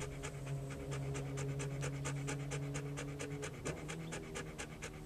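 Dog panting rapidly, about six or seven quick breaths a second, with a steady low hum underneath that shifts in pitch about three and a half seconds in.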